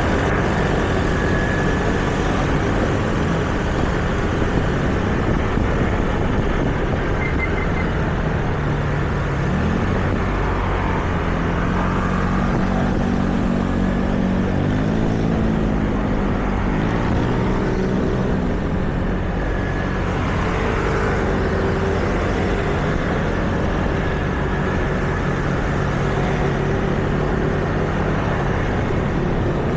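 Street traffic noise: a steady rush of passing vehicles. Engine hums rise and fall in pitch in the middle of the stretch as vehicles go by.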